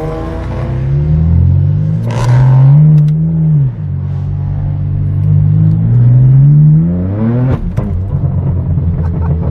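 Straight-piped BMW M4 F82's twin-turbo inline-six pulling hard through the gears. The revs climb, drop sharply at a shift about three and a half seconds in, climb again, and drop at another shift near eight seconds with a few sharp exhaust cracks.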